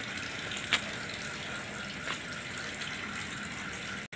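Steady hiss of running water, with a short sharp click under a second in and a fainter one about two seconds in.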